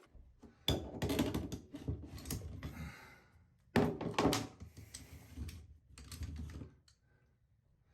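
Rapid clicking, knocking and scraping of hard tools and drain parts being handled, in two spells of a few seconds each.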